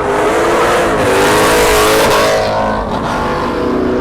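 Car engine revving hard and held at high rpm. Its pitch climbs, holds, then drops in the last second, with a loud rushing hiss strongest through the middle.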